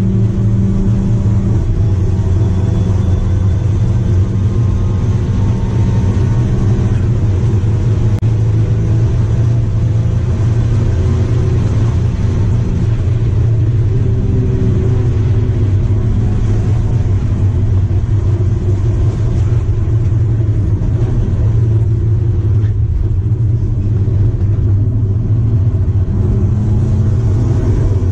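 Daihatsu Charade GTti's 993cc turbocharged three-cylinder engine running hard at racing speed, heard from inside the stripped race-car cabin along with road and wind noise. The engine note holds steady for long stretches, with a few changes in pitch.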